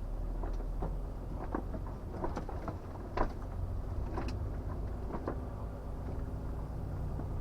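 Volvo FH 460 truck's six-cylinder diesel running steadily as a low hum heard from inside the cab, with irregular clicks and knocks scattered through the first five seconds, the sharpest about three seconds in.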